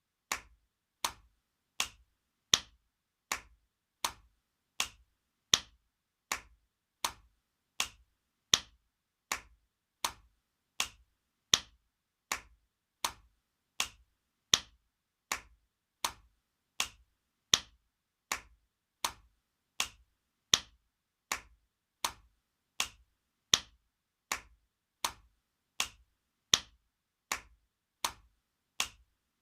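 Spanking sound effect: sharp slaps repeating about every three-quarters of a second in a steady loop, every fourth slap louder.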